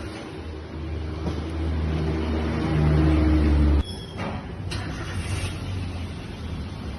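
Honda Brio engine running and brought up in revs, growing louder for about three seconds, then cut off abruptly a little under four seconds in, leaving quieter workshop noise.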